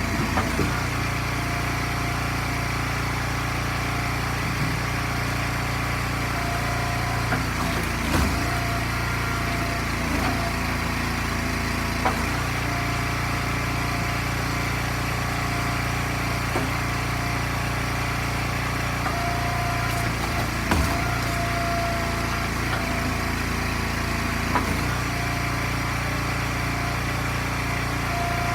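Small gasoline engine of a log splitter running steadily at a constant speed, with a few sharp knocks scattered through.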